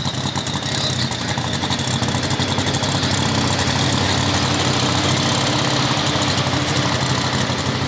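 Turbocharged diesel engine of a super stock pulling tractor running steadily with a rapid, even firing rhythm, growing a little louder over the first few seconds.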